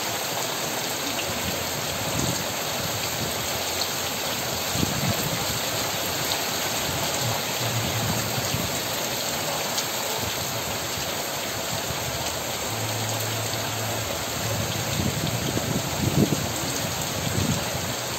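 Heavy rain falling steadily, an even hiss with scattered heavier drips and spatters, more of them near the end.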